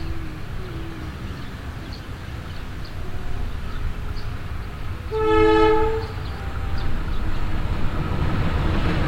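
Locomotive horn sounding one blast of about a second, roughly five seconds in, the railway horn signal called semboyan 35. Under it runs the low rumble of an approaching train, which grows louder toward the end.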